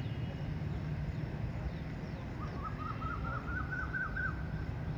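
Steady low rumble of machinery noise. About halfway through, a bird gives a quick run of short chirps for about two seconds, each a little higher than the last.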